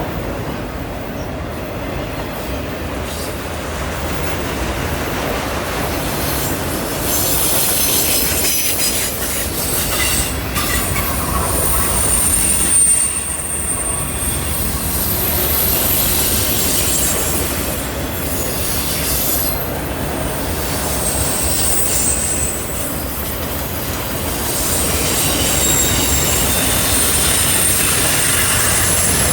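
Freight train's cars rolling past on a curve: a steady rumble of wheels on rail, with high squeals from the wheel flanges coming and going several times.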